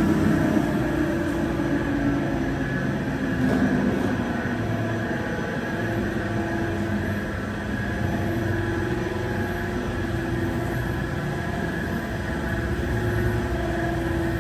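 Automatic car wash tunnel equipment running: a steady mechanical rumble with a held low hum.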